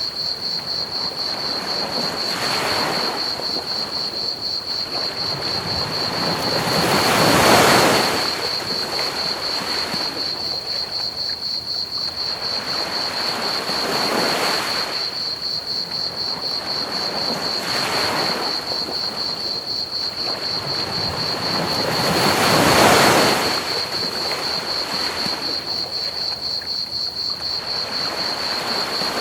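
Ocean waves washing up on a beach, each one swelling and fading over a few seconds, with the two biggest about 7 and 23 seconds in. Under them runs a steady high trill of chirping crickets and a constant even hiss of pink noise.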